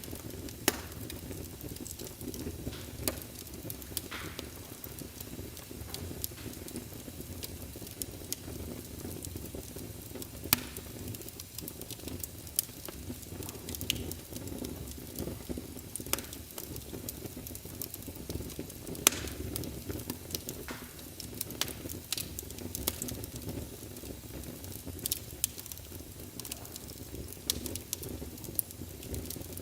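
Wood fire burning in a fireplace: a steady low rumble of flames with frequent crackles and occasional louder pops.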